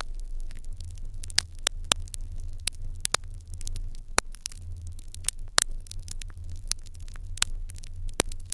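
Wood fire crackling in an irori hearth: irregular sharp crackles and pops, several a second, with a few louder pops, over a steady low hum.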